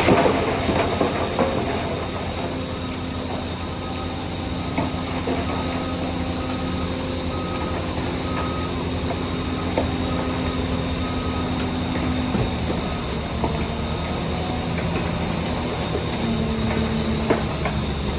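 Heavy earthmoving machinery working: a diesel engine running steadily, with scattered clanks and rattles of steel and a faint, evenly repeated beep for a few seconds in the middle.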